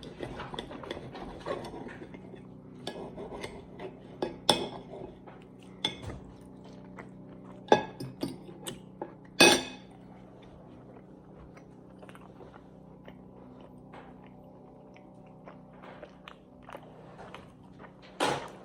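Cutlery clinking and scraping on a plate, with chewing, while eating steak. There are sharp clinks now and then, a few louder ones near the middle and one near the end.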